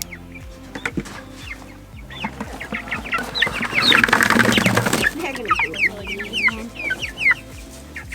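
Young meat-bird chicks peeping, many short high calls that slide downward, over and over. A louder rustling burst comes in the middle.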